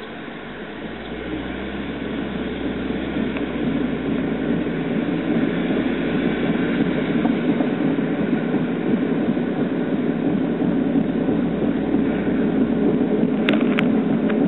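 Worn wheel hub bearing on a Mazda Roadster (NB6C) droning while the car is driven, getting louder over the first few seconds and then holding steady. A few sharp clicks come near the end.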